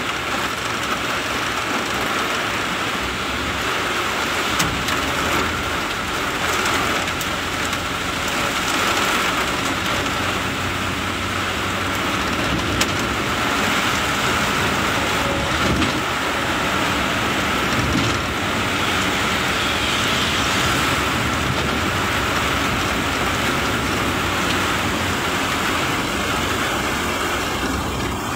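Heavy rain pouring, mixed with the steady noise of a vehicle driving along a wet road, with a few short knocks.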